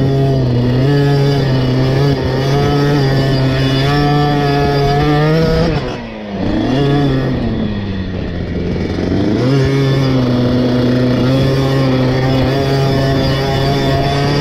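KTM 50 SX's small two-stroke single-cylinder engine revving hard under throttle. About six seconds in the revs drop as it comes off the throttle, then the pitch climbs back over the next few seconds to full revs again.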